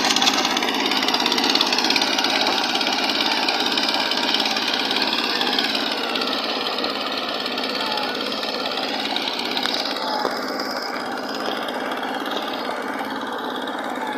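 Farm tractor engine running continuously, its pitch wavering slightly with load, growing a little quieter in the later part.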